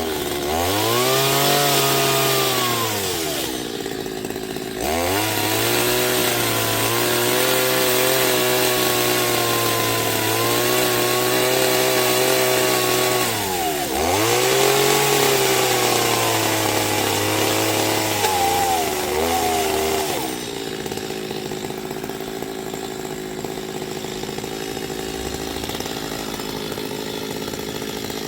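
Chainsaw running under throttle, likely cutting wood: the engine revs up, holds a high steady pitch, drops and climbs again twice, then eases off about twenty seconds in to a quieter, steadier sound.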